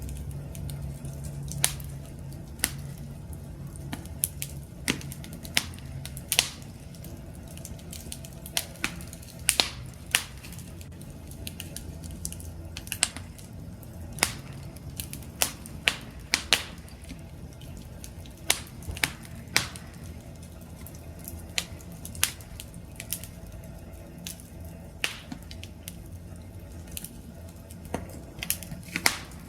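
Campfire crackling: wood burning with a low steady rumble of flame and irregular sharp pops and snaps, one or two a second.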